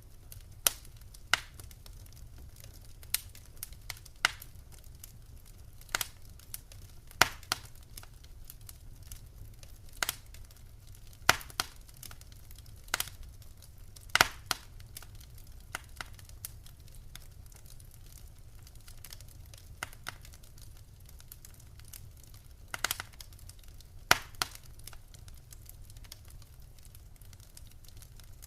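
Wood fire in a fireplace crackling: sharp, irregular pops, a few of them loud, over a low steady rumble. The pops thin out for several seconds past the middle, then a few louder ones come back.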